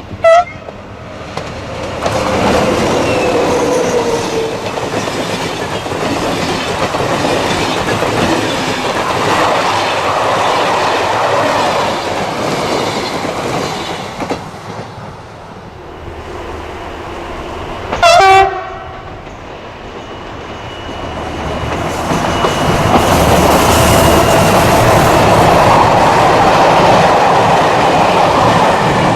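A diesel-hauled SNCF train running with wheels clicking over the rail joints. A short horn blast sounds right at the start and another about two-thirds of the way through. The running noise swells again and is loudest near the end.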